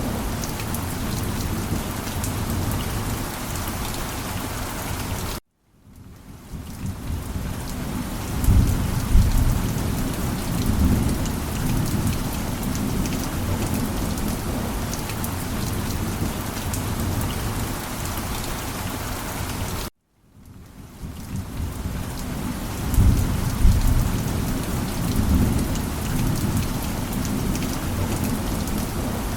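Steady heavy rain falling, with a low rumble of thunder twice. Twice the sound cuts out abruptly and fades back in, and each rumble follows a few seconds later.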